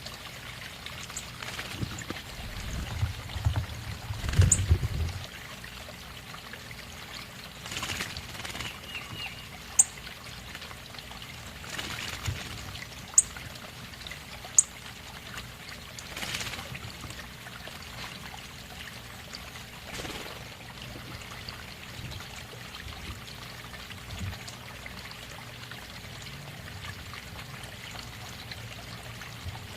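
Water trickling and pouring steadily. A low rumble comes a few seconds in, and there are a few short, sharp high clicks.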